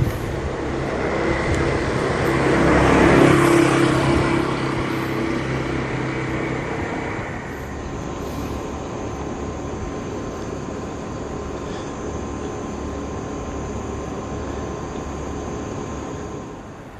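A vehicle passes by, its noise with a few steady tones rising to a peak about three seconds in and dying away by about seven seconds, leaving a steady background hum.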